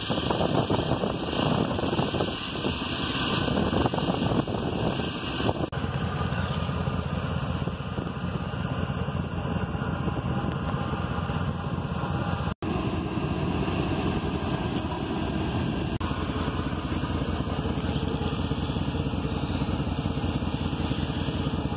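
2001 Dodge Dakota's 4.7-litre V8 idling steadily, an even run of engine pulses. The owner suspects an exhaust manifold leak on the driver's side.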